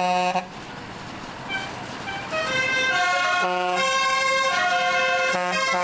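Vehicle horns on a Christmas tractor run, three short toots about two and a half seconds apart. From about two and a half seconds in, a longer horn sounds several tones at once and steps in pitch.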